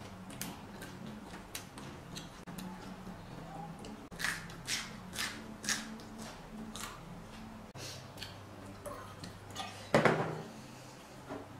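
Close-up eating sounds of someone biting and chewing raw vegetables, with a run of crisp crunches about four seconds in. A single loud knock comes near the end.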